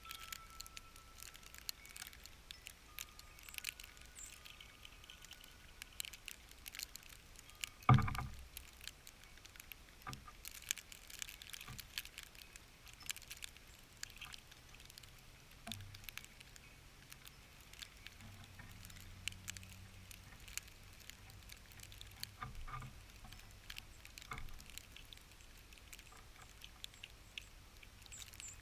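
Irregular light ticks and taps close to the microphone, with one loud thump about eight seconds in and a faint low hum in the second half.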